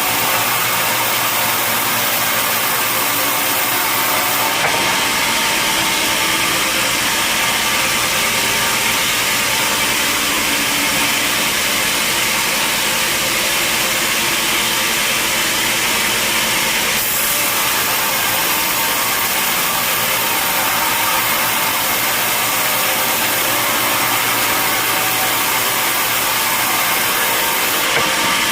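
Sawmill machinery running steadily: a continuous loud drone and hiss. Its tone changes abruptly about five seconds in, again past the middle, and just before the end.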